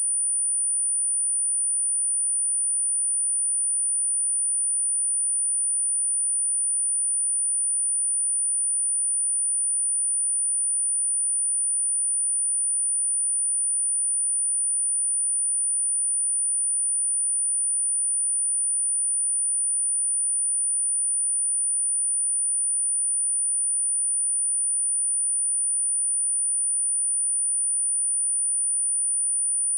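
A steady, unbroken high-pitched pure sine-wave test tone at 9416 Hz, played for speaker testing and for clearing water and dust from a speaker.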